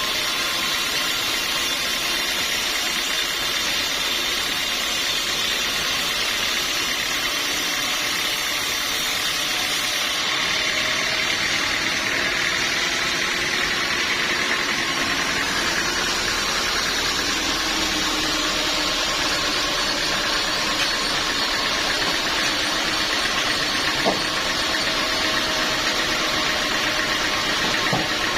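Sawmill machinery running steadily with a continuous, even mechanical drone, with one short click about 24 seconds in.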